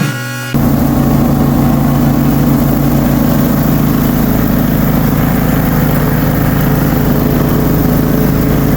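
Ride-on mower engine running steadily, cutting in abruptly about half a second in after a snatch of music.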